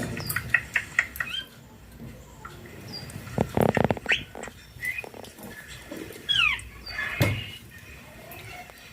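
Rose-ringed (Indian ringneck) parakeet making short chirps, clicks and quick whistled glides that sweep up and down, with a few louder bursts.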